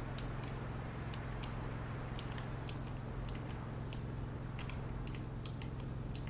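An engine running steadily at a low hum, with light, irregular clicks on top.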